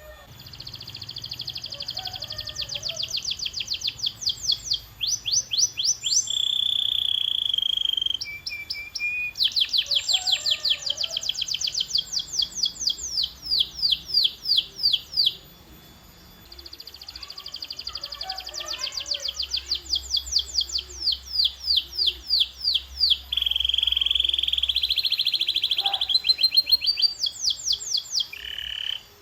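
Domestic canary singing a long, loud song made of trills. Each trill is a rapid run of repeated notes, some very fast rolls and some slower sweeping notes, with a short pause about halfway through.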